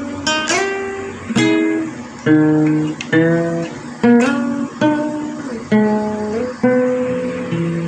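Guitar music: plucked notes and small chords, each ringing and fading, several sliding up or down in pitch.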